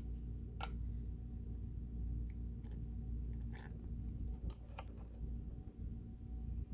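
A few light clicks and taps from handling the mechanism of an opened Kenmore sewing machine while oil is dropped onto it, over a steady low hum.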